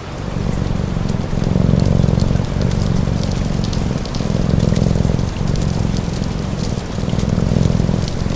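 A cat's purr, swelling and fading with each breath, layered over steady rain and the sharp small pops of a crackling wood fire.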